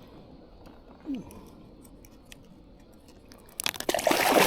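Faint clicks and light handling noises, then about three and a half seconds in a sudden loud burst of water splashing and clattering as the hooked fish thrashes.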